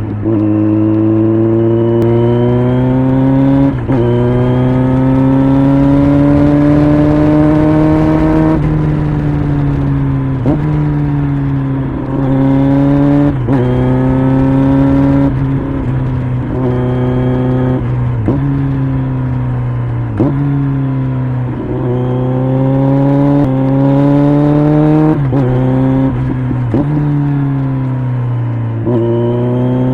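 2020 Kawasaki Z900's inline-four through an LCI aftermarket exhaust, ridden hard: the engine note climbs in each gear and drops back sharply at each gear change, about a dozen times, with short sharp revs between some of them.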